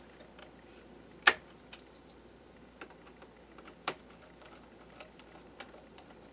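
Light scattered clicks and taps of a screwdriver and small parts on the open laptop's fan and heatsink assembly, with two louder sharp clicks, about a second in and near four seconds.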